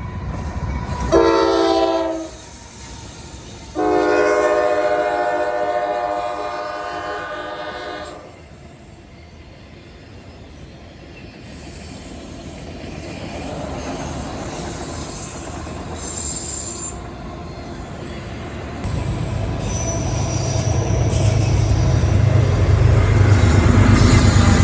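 Diesel locomotive horn sounds a short blast, then a long blast of about four seconds, from an approaching freight train. The train's rumble then grows louder, with high wheel squeals, and the locomotive's diesel engine rumbles loudly as it passes near the end.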